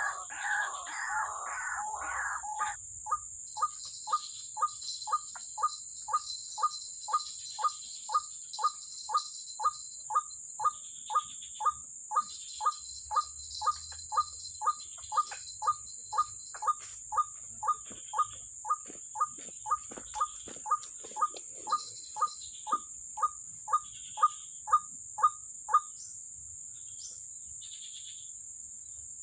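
White-breasted waterhen (ruak-ruak) calling: a jumbled burst of calls at first, then a long, regular series of short single notes at about two a second that stops near the end. Insects buzz steadily throughout.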